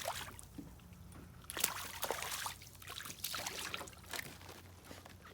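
River water sloshing and splashing in a few short bursts as a bass is put back in the water and released.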